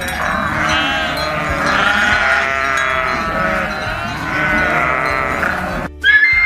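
Sheep bleating: several long, quavering bleats that overlap one another, cutting off abruptly near the end.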